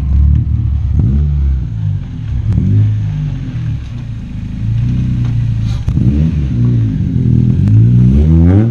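Honda Civic hatch with a swapped-in K24 2.4-litre four-cylinder engine driving past, its note rising and falling as the revs change, with a sharp rise in revs about six seconds in and again near the end.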